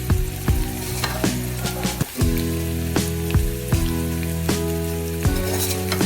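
Food sizzling as it fries in a cooking pot, over background music with sustained low notes and a steady beat of about two and a half beats a second.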